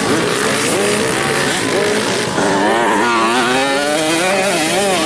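Several motocross bikes' engines revving up and down at once, their pitch wavering. They get louder about two and a half seconds in.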